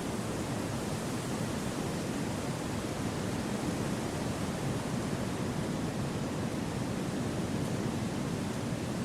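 Steady wind rushing through forest trees, an even rushing hiss at a constant level with no distinct gusts.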